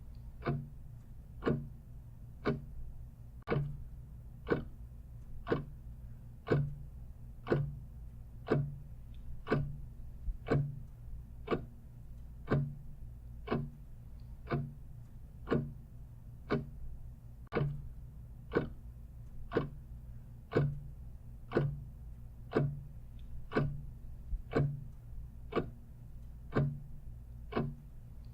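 Mechanical clock ticking steadily, about one tick a second with fainter ticks in between, over a low steady hum.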